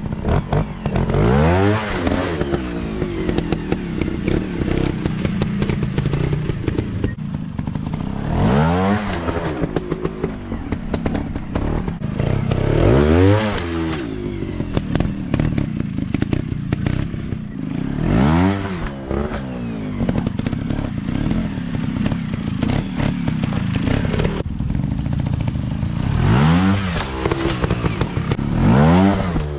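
Small dirt-bike engines running hard, their pitch rising and falling about five times as the bikes rev and pass, with clattering throughout.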